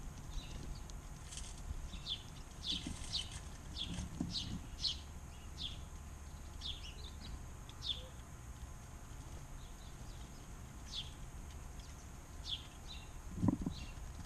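Small backyard birds chirping: many short, quickly falling chirps, thickest in the first few seconds and sparser after. A few low thumps, the loudest near the end.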